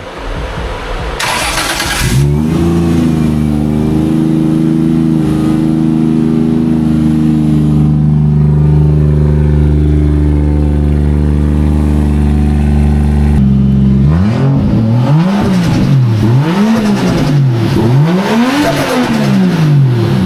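Nissan S13's swapped 1JZ turbocharged inline-six starting up about two seconds in and settling into a steady high idle. Near the end it is revved three times in quick succession, pitch rising and falling with each blip.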